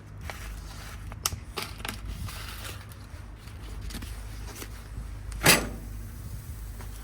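Food crackling on a charcoal grill: scattered sharp crackles and clicks, with one loud crackle about five and a half seconds in, over a low steady rumble.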